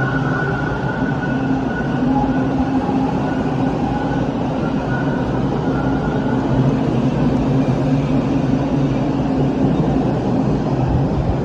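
TTC Line 2 subway train running at the platform: a steady rumble with a few held motor tones over it, growing slightly louder.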